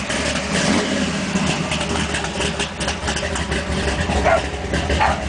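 A 598-cubic-inch V8 in a drag-race Camaro idling with a steady low rumble.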